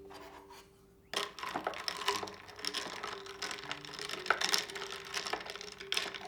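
Small hard objects being handled: a busy run of clicks, taps and rustles starting about a second in, over faint background music.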